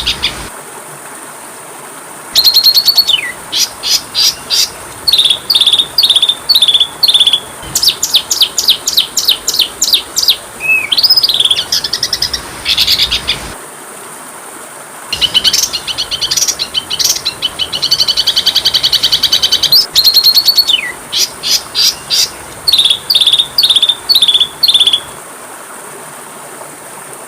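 Oriental magpie-robin (kacer) singing in bouts of rapid repeated high notes, trills and downward-sliding whistles, broken by pauses of a couple of seconds near the start, about halfway through and near the end.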